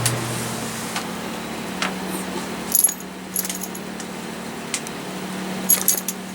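Champion 2000 W inverter generators running steadily under load with a constant hum; a louder, deeper hum drops away just after the start. Several light metallic clinks and jingles sound around the middle and again near the end.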